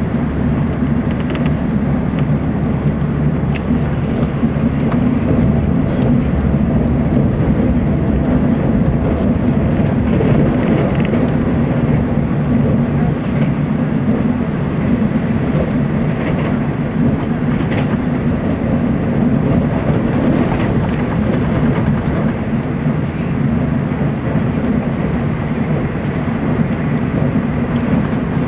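Cabin noise inside a TEMU2000 Puyuma electric multiple unit running on the line: a steady low rumble of wheels on rail, with occasional faint clicks.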